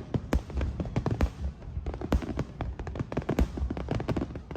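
Fireworks going off in rapid succession: many overlapping bangs and crackles a second.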